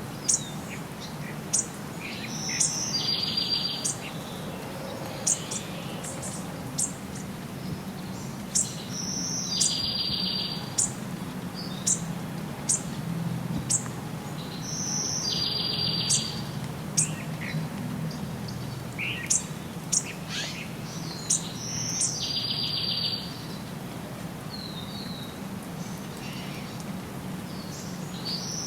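Wild birds chirping, with many short, sharp high calls and a buzzy trill of about a second that comes back about every six seconds. A low, steady rumble runs underneath.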